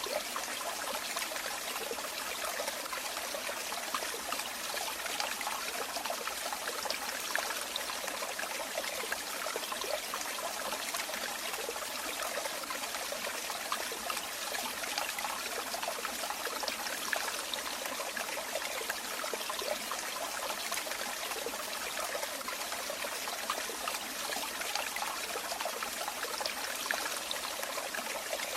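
Running water trickling and splashing in a steady flow, like a small stream or falling water, with no change in level.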